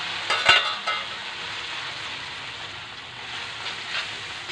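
Instant noodles sizzling in hot oil in a steel wok. A metal spatula clinks and rings against the wok a few times about half a second in, and the noodles are stirred again near the end.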